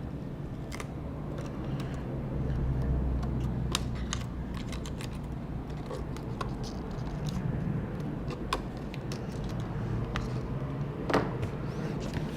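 A handful of small, sharp clicks and taps from hand tools and parts being handled on an opened laptop, over a steady low hum.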